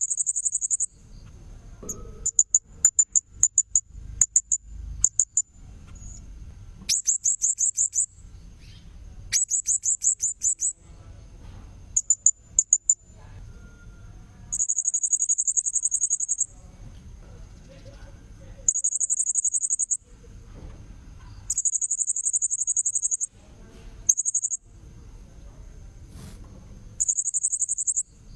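Blue-crowned hanging parrot (serindit) calling, as played in a lure recording: quick trains of high, sharp chip notes alternating with longer shrill trills of about a second and a half, repeated over and over. A faint steady high whine runs underneath.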